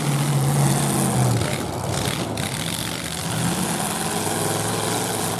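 Demolition derby trucks' engines running hard and revving, with a drop in engine pitch a little over a second in.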